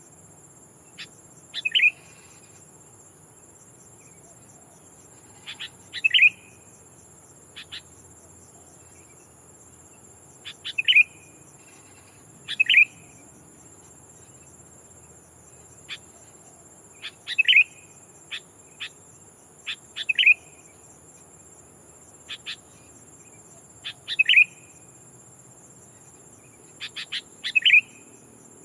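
A sooty-headed bulbul (kutilang) calls in short, clear notes every few seconds, often two at a time. A decoy bird is calling to rival bulbuls. A steady high insect drone runs underneath.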